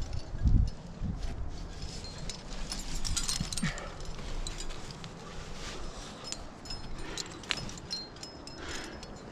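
Irregular clicks, knocks and scrapes of climbing gear and boots against rock, with a couple of low thumps in the first second.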